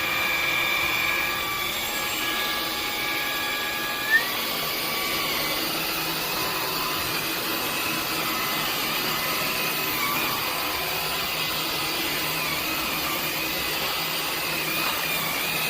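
Cordless stick vacuum running steadily with a motor whine. About four seconds in there is a sharp click, and one whine tone steps up in pitch.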